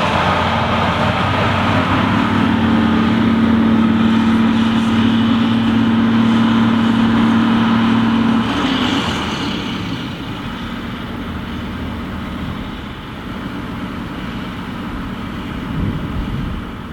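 Large diesel farm machinery engine running steadily under load; about eight seconds in, the note drops away and the sound gets quieter.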